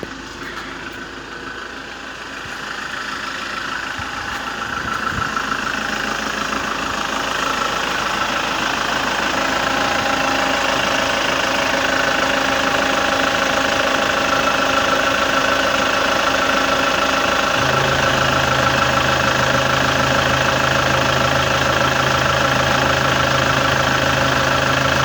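Kia Sorento engine running warm and steady, growing louder over the first several seconds and then holding level, with a steady low hum joining about two thirds of the way through. The engine has one leaking injector seal and a carbon-gummed injector.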